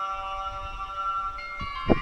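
Bell-like chime tones ringing on together at several steady pitches; a fresh set of tones is struck about a second and a half in, and a short low thump comes just before the end.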